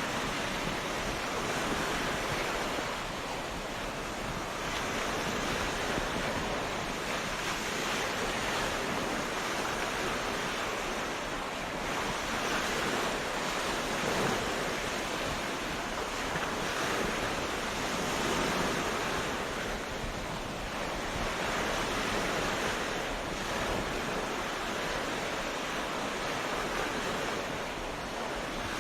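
Sea waves breaking and washing onto a beach: a continuous surf hiss that rises and eases gently every few seconds.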